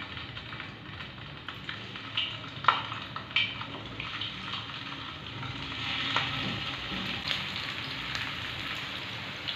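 Beef kababs shallow-frying in hot oil in a frying pan as more are laid in: a steady sizzle full of small crackles, with a couple of sharper clicks a few seconds in.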